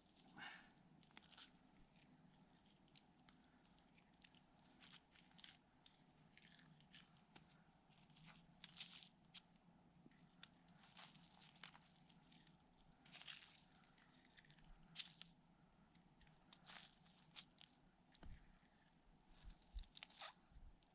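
Faint, irregular rustling and crunching with small snaps, as hands gather pine needles and wintergreen leaves from the snow.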